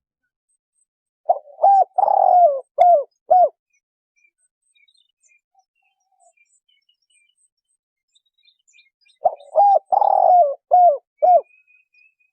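Spotted dove cooing: two identical phrases about eight seconds apart, each a quick run of about five low coos with a longer falling note in the middle. Faint high chirps of small birds can be heard between the phrases.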